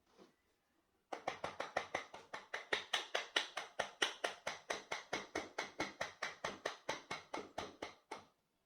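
A rapid, even run of sharp taps, about five a second, starting about a second in and stopping near the end.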